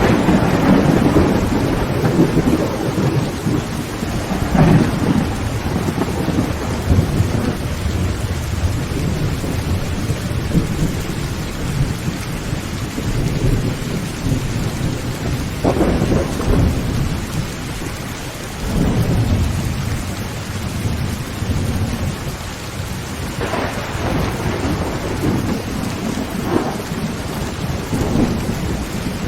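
Heavy rain drumming on a tin roof in a steady downpour, with thunder rumbling and rolling several times, in swells at the start, about 5 s, 16 s, 19 s and 24 s in.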